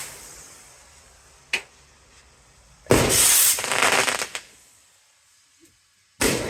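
Fireworks going off: a short sharp crack about a second and a half in, then a loud bang about 3 s in that trails off over a second and a half, and another bang near the end.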